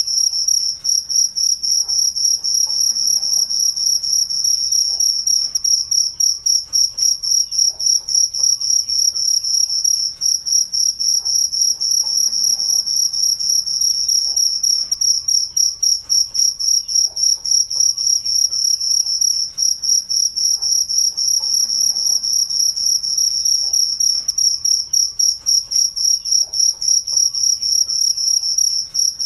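Crickets chirping at night: a steady, rapid pulsing trill on one high pitch that keeps on without a break.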